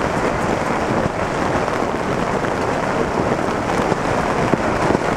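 Heavy rain pelting a nylon dome tent, heard from inside: a dense, steady, crackling patter of drops on the fabric.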